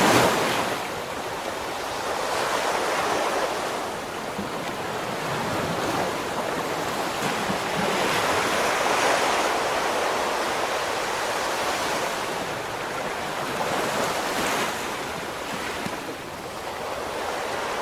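Ocean surf: waves breaking and washing in, a steady rush that swells and eases every few seconds, with the loudest surge right at the start.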